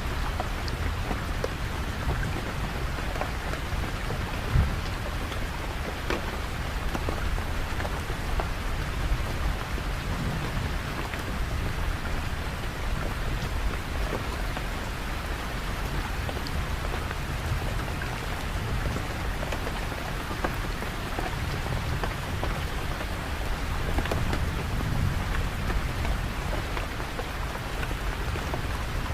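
Steady heavy rain, drops pattering on a surface with scattered sharper ticks, over low rolling thunder that swells near the end.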